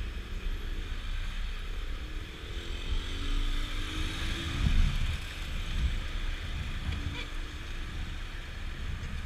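Honda PCX scooter's single-cylinder engine running on the move, its note rising as it accelerates over the first few seconds, with steady wind rush and road noise on the microphone.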